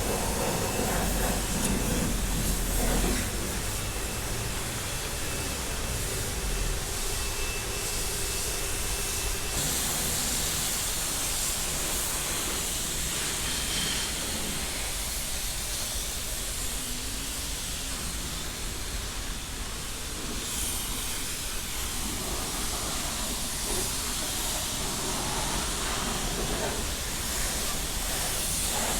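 Steady hiss of a high-pressure water spray at a car wash, with a low rumble underneath.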